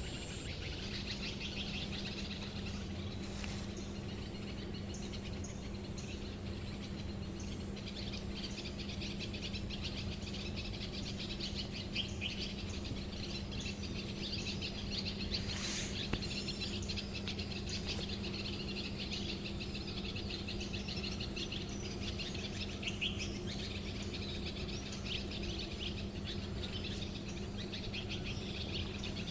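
Small birds chirping and twittering continuously outdoors, over a steady low hum.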